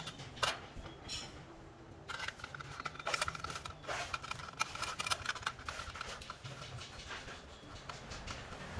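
Yamaha Grand Filano scooter's single-cylinder engine idling quietly through an aftermarket TZM-style exhaust, with scattered clicks and scrapes over the low idle rumble.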